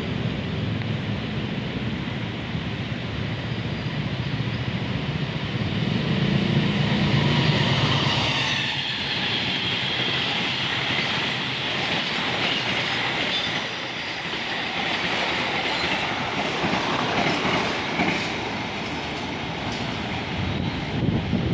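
Train passing close by on the rails, its wheels clicking over the rail joints; it is loudest about seven seconds in.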